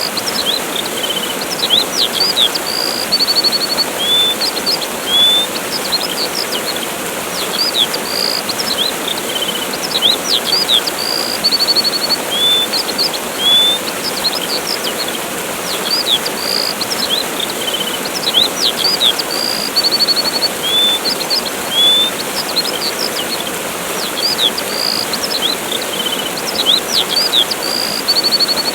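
Steady rushing of a waterfall, with small songbirds chirping and trilling over it in short high calls that come again and again.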